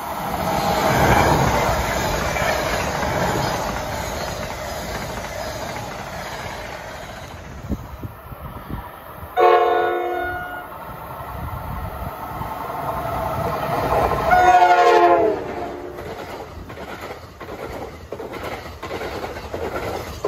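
A train passing, with a steady rumble and wheel clatter. Its multi-tone horn sounds two blasts about five seconds apart, each about a second long, and the second drops in pitch as it ends.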